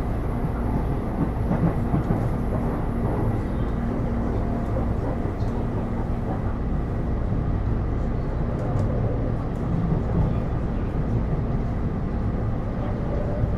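Interior running sound of a Taipei Metro C301 train with Bombardier IGBT-VVVF traction under way: a steady rumble of wheels and running gear. A faint high whine stops about three and a half seconds in.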